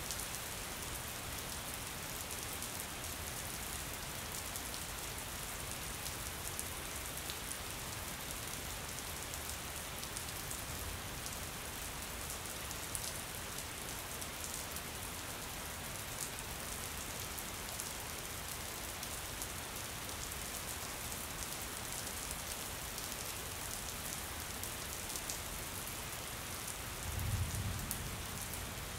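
Steady rain falling on window glass, with many fine ticks of single drops. A short low rumble comes about two seconds before the end.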